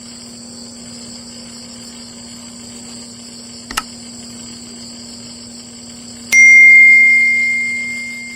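A click, then about two-thirds of the way in a single bright ding like a small bell or chime, one clear tone ringing out and fading slowly. Under it runs a steady background hum with a high, insect-like hiss.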